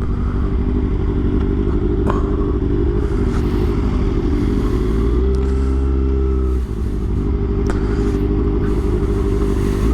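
Motorcycle engine running steadily while riding at road speed, with a brief dip and change in its note about two-thirds of the way through.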